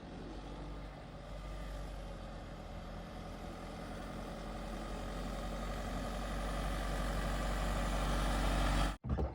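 Heavy diesel engine running steadily, growing gradually louder, then cutting off suddenly near the end.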